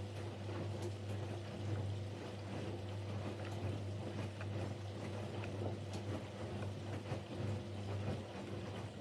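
Siemens Siwamat Plus 574 washing machine in a rinse cycle: the drum motor hums steadily while the drum turns the laundry through the rinse water, with a continuous sloshing and rustling.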